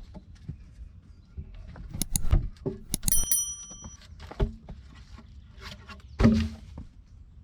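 Handling knocks and clatter, with a piece of metal struck about three seconds in that rings briefly with a clear bell-like tone, and a heavier thud near the end.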